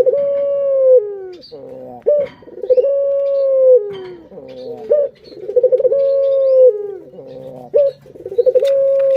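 A puter dove (Barbary dove) cooing, a rolled coo repeated four times. Each coo opens with a quick stutter and then holds one long note that drops off at the end.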